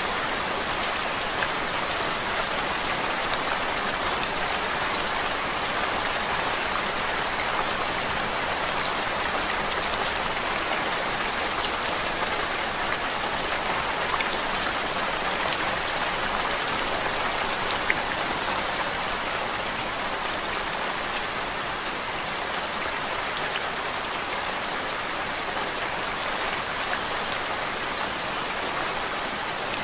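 Steady rain falling, an even hiss with the light patter of individual drops, unchanging throughout.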